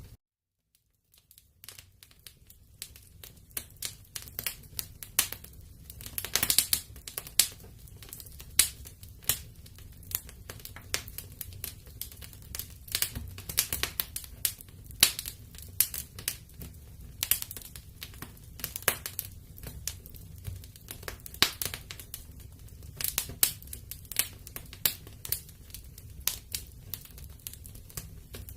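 Wood fire burning in a fireplace, crackling and popping irregularly over a low rumble of flame. The sound cuts out for about a second and a half right at the start, then fades back in.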